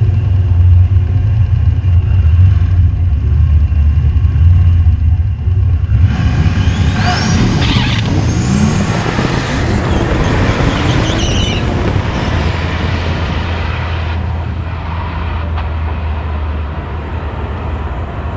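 Turbocharged V8 drag car running hard on a pass: a steady low engine drone, then from about six seconds in a loud rush of noise with rising whistles, which slowly fades.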